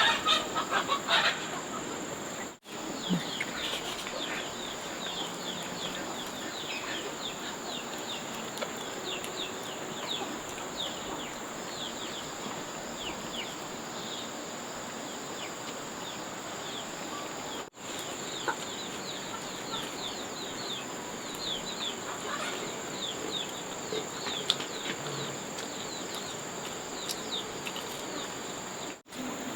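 Small birds chirping constantly: many short, quick falling chirps, over a steady high-pitched hum.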